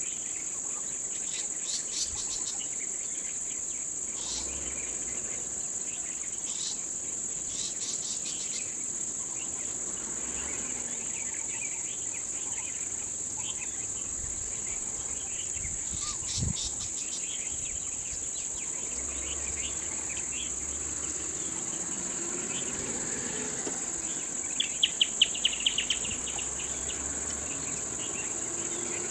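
Steady high-pitched insect drone, typical of crickets or cicadas, with scattered faint chirps. About 25 seconds in comes a quick run of about eight sharp clicking chirps, louder than the rest.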